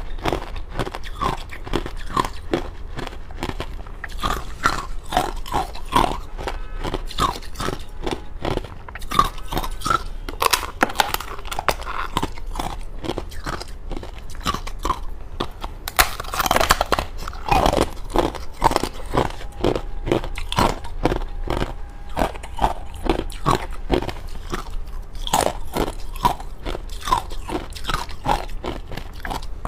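Close-up crunching as thin, hollow frozen matcha ice is bitten and chewed, a rapid run of crisp cracks and crunches, thickest around the middle.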